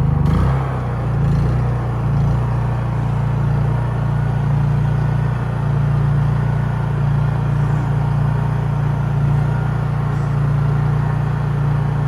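Honda EU3000is inverter generator's single-cylinder engine running steadily just after a cold pull-start. It wavers a little in the first second, then holds an even hum.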